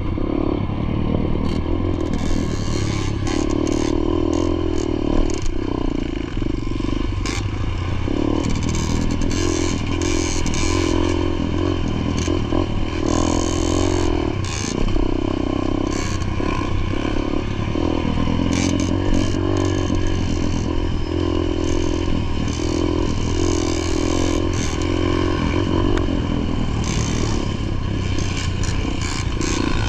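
Motocross dirt bike engine running hard through laps, its pitch rising and falling as the throttle opens and closes, with frequent short clattering and scraping noises over it.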